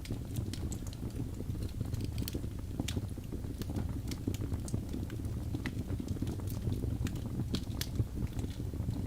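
Logs burning in a fireplace: a steady low rumble of flame with frequent sharp crackles and pops scattered irregularly throughout.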